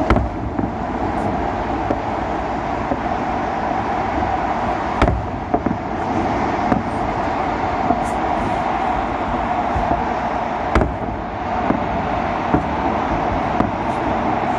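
Fireworks salute going off: sharp bangs, the loudest about five seconds apart, with smaller pops between them, over a steady background rumble.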